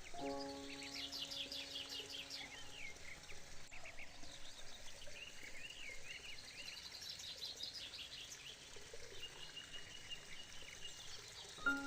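Several birds chirping and trilling, faint, over a soft outdoor hiss. A held musical chord fades out during the first few seconds.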